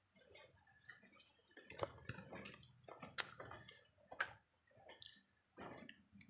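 Quiet eating sounds: scattered wet mouth clicks and smacks from people chewing grilled fish, as fingers pull the fish apart.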